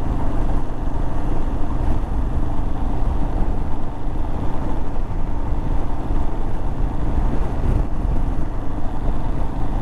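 Royal Enfield Himalayan's 411 cc single-cylinder engine running steadily while riding along, heard with road and wind noise.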